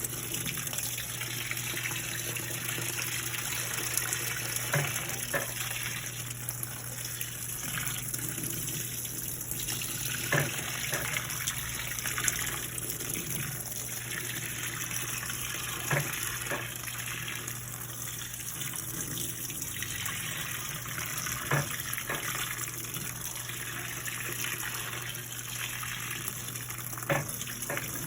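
Electrolux LPE16 washing machine filling with water: a steady rush of water with a low hum, and a short knock about every five and a half seconds.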